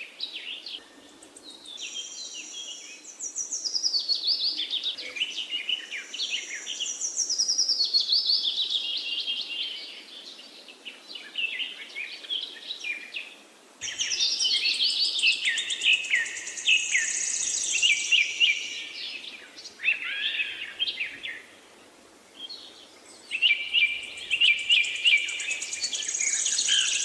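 Parakeets chirping and chattering in quick, high runs of twittering notes and trills. The chatter breaks off in short lulls twice.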